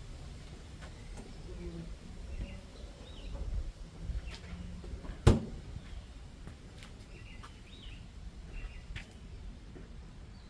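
Repaired Happy Home box fan running, heard as a low uneven rumble, with one sharp click about five seconds in and a few faint chirps.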